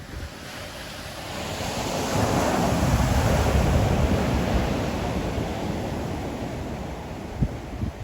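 Ocean waves on the shore: one wave swells up to a rushing break about three seconds in, then slowly washes back and fades. Wind buffets the microphone, with a short thump near the end.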